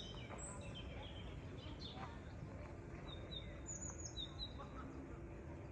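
Small birds chirping: scattered short high chirps and a few falling calls, with a quick run of chirps a little past the middle, over a steady low outdoor background noise.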